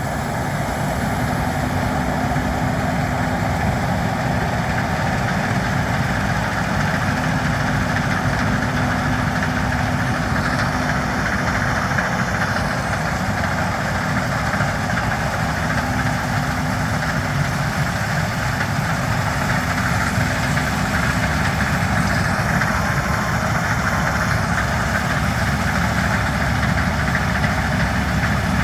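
Case IH 7150 combine harvester running steadily while working through a pass of wheat, its engine and machinery giving an even, unbroken drone.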